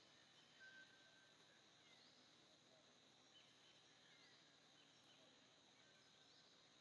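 Near silence: faint outdoor ambience with a soft, high chirp repeating about once a second and one brief whistle-like note near the start.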